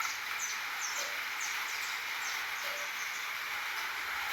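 Rain falling steadily on a corrugated zinc roof, an even hiss. Over it a small bird gives a string of short, high, falling chirps through the first three seconds.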